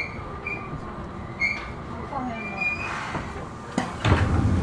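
Inside a Seibu New 2000 series electric train as it slows: short high brake or wheel squeaks over the running rumble, and a falling motor tone. Near the end comes a sharp click, then a louder low hum.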